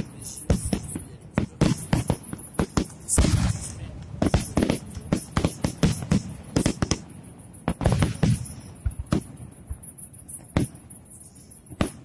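Aerial firework shells bursting in a dense, irregular string of bangs and crackles, several at a time in places, with heavier booms about three and eight seconds in. Recorded on a mobile phone.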